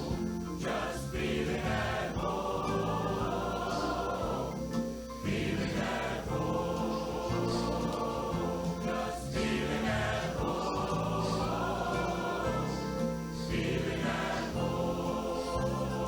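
Choir singing a slow hymn with accompaniment, in long held chords phrased every few seconds.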